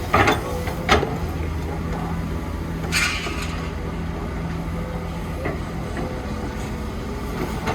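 Diesel engine of a heavy construction machine running steadily, with several sharp knocks and a brief hissing rush about three seconds in.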